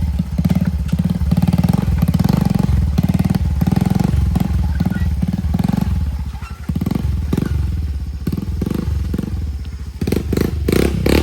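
Motorcycle engine running hard and revving up and down as it is ridden over a rough mountain trail, easing briefly about six and a half seconds in.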